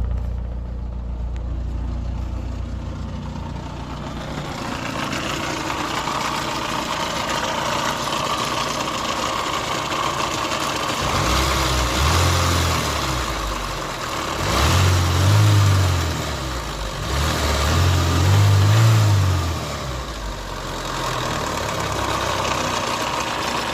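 Nissan Primera P11 engine idling with a noise its owner cannot place, though oil level, oil pump and new spark plugs have been checked; about halfway through it is revved briefly three times, a few seconds apart.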